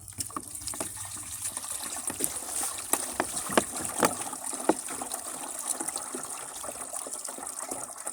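Water pouring and splashing into the tank of a motorized sprayer as it is filled.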